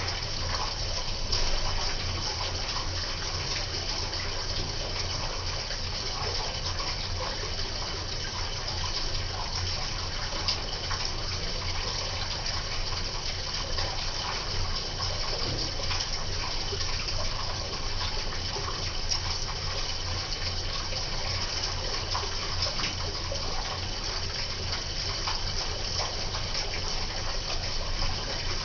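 Water gushing steadily inside an Electrolux LTE08 top-loading washing machine, over a low hum.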